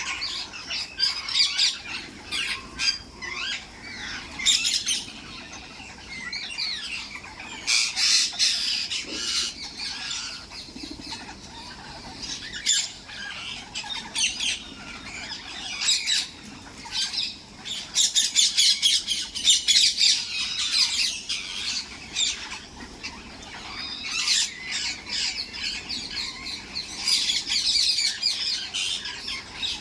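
Several parrots squawking and chattering in harsh, rapid bursts, now louder, now softer, with no break throughout.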